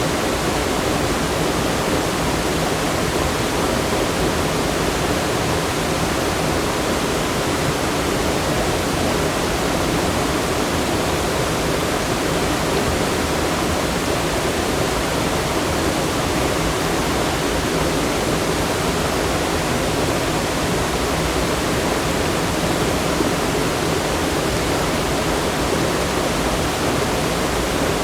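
Rushing water from a fast stream or falls, a steady, unbroken wash of sound.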